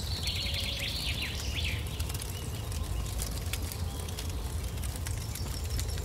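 A songbird sings a fast phrase of quick falling notes in the first two seconds, over the light crackle of a small campfire of dry sticks catching and a steady low background rumble.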